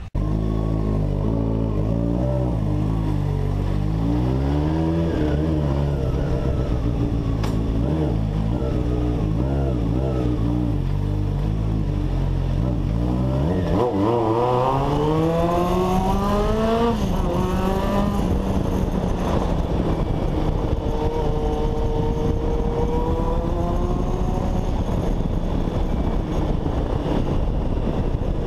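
Honda CBX 750 inline-four motorcycle engine running, revved briefly early on, then accelerating hard with its pitch climbing for about three seconds near the middle before falling back, and pulling up again more gently after that.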